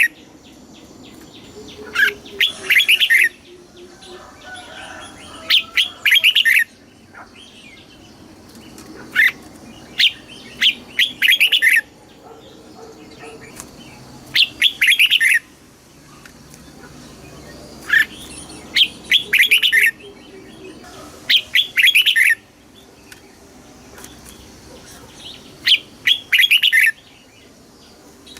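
Red-whiskered bulbul singing: short, loud, bright phrases, often two close together, repeated every three to four seconds.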